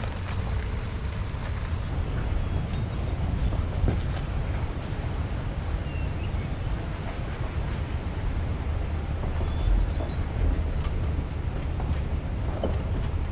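2020 Ram 1500 Rebel pickup crawling slowly over a rough, rocky mountain trail: a steady low rumble of engine and tyres with a few faint knocks.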